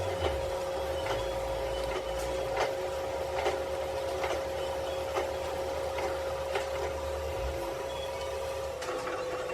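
A machine running steadily with a constant whine and a low hum, with light clicks or knocks about once a second.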